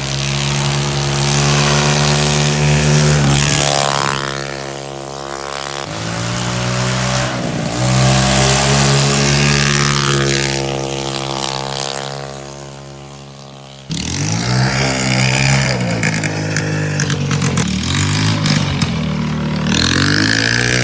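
Riding-lawnmower engine running hard at a steady pitch, easing off twice. About 14 s in the sound changes abruptly to an engine whose pitch rises and falls again and again, as if it is being throttled on and off.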